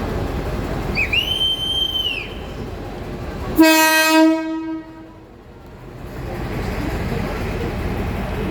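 Train horn giving one loud blast of about a second and a half, starting suddenly a little after three seconds in, over a steady rumble of the train. A short, high, rising-and-falling whistle is heard about a second in, before the horn.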